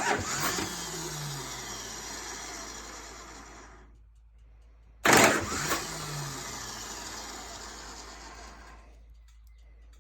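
1988 Harley-Davidson Softail's electric starter tried twice, about five seconds apart. Each time there is a loud clack, then a whir that falls in pitch and winds down over a few seconds without the engine catching, the starter problem the owner keeps hitting.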